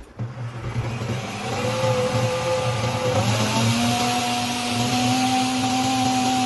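Nutribullet 1200 W blender motor base switched on for a test run after repair, spinning up with a whine that steps up in pitch twice before holding a steady high-speed run.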